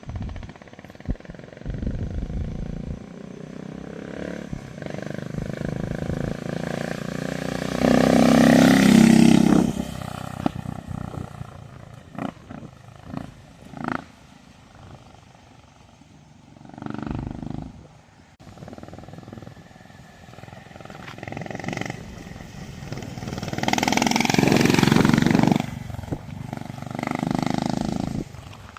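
Honda GB350 C's single-cylinder engine running through a handmade RX-Ranger Nitro slip-on exhaust, revved up and down several times, with two long hard revs. A few sharp pops follow as the revs drop after the first big rev.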